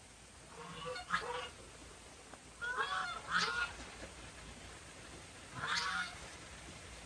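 Short calls from a bird, several in a row: around one second in, twice around three seconds in, and once near six seconds.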